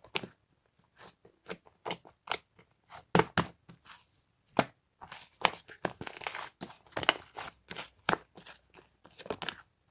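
Irregular sharp crackles and crunches, a few to several a second with short pauses between, as of something crisp being handled, crumpled or torn close to the microphone.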